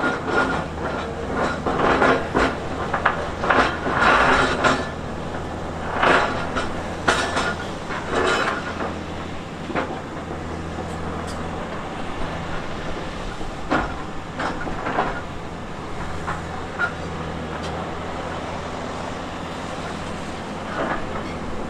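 Diesel engine of a heavy tracked earthmoving machine running steadily under load, with irregular metallic clanking and crunching of steel tracks and rock, heaviest in the first half and thinning out later.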